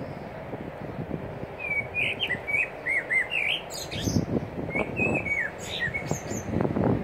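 Small songbirds chirping in a tree, a quick run of short rising-and-falling chirps from about a second and a half in until near the end, with wind rumbling on the microphone.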